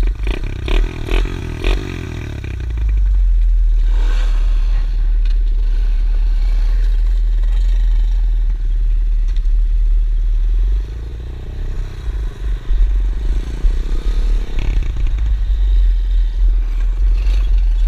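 Pit bike running while being ridden, with scraping and clattering and a heavy low rumble.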